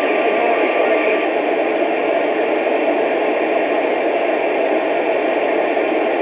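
Steady static hiss from a two-way radio receiver's speaker, an even rush of noise with no clear voice coming through.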